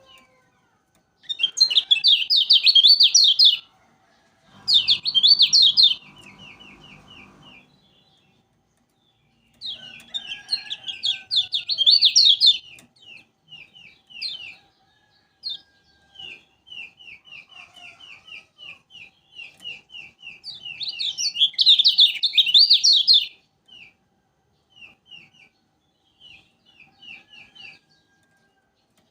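Kecial kuning, a yellow white-eye, singing: loud fast chattering phrases broken by runs of short, evenly repeated high chirps, with a low buzzing noise underneath for a few seconds early on.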